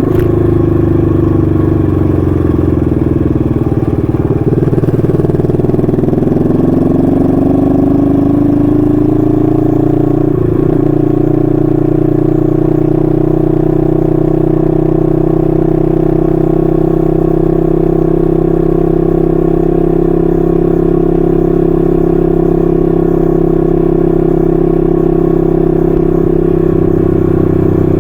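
1968 Honda Dream CL250's 250cc parallel-twin engine running through its stock mufflers while cruising. Its note falls over the first few seconds, climbs again, breaks briefly about ten seconds in, then holds steady.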